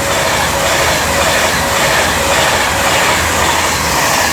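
Class 390 Pendolino electric train passing through the station at speed: a loud, steady rush of wheel and air noise that swells up just before and fades away just after.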